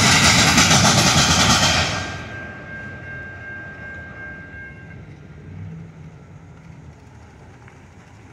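CN freight train's last cars rolling past loudly, the noise falling away sharply about two seconds in as the train clears. A low rumble and a faint steady high ringing linger for a few seconds after.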